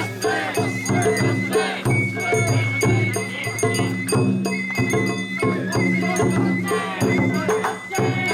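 Traditional Japanese festival music: a high bamboo flute holding long, slightly wavering notes over steady drumming and rattling percussion.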